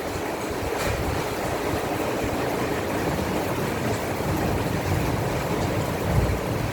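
Heavy thunderstorm rain pouring steadily, with a low rumble underneath that swells briefly near the end.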